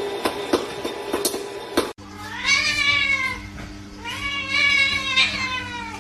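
A cat meowing twice: two long, drawn-out meows, each rising and then falling in pitch and lasting over a second. Before them, for about the first two seconds, a quick irregular clicking over a steady hum that cuts off abruptly.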